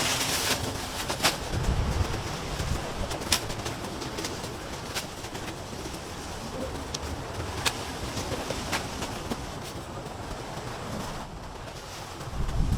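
Wind buffeting the microphone in gusts, with scattered sharp clicks and knocks, about five or six of them, as debris is handled.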